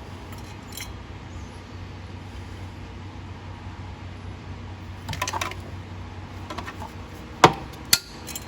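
Hand tools and metal engine parts clinking during an engine teardown: a short run of light metallic clinks about five seconds in, then two sharp metal clanks near the end, over a low steady hum.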